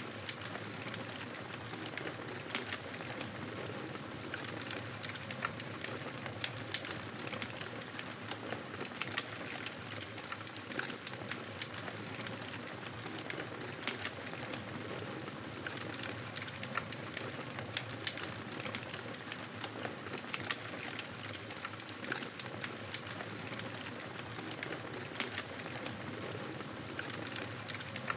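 Wood fire in a fireplace crackling, with frequent irregular pops and snaps over a steady soft hiss.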